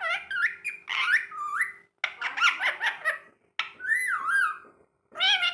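Green ringneck parrot (rose-ringed parakeet) making squeaky, chattering calls in four or five bursts a second or so long, each gliding up and down in pitch.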